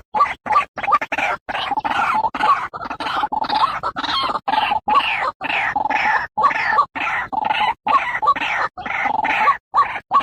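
White-breasted waterhen calling: a rapid, unbroken run of short repeated notes, about three a second.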